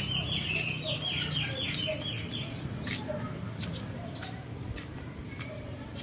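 A bird singing a run of about eight repeated high notes, each sliding downward, about three a second, stopping about two and a half seconds in. Sharp clicks follow over a steady low rumble.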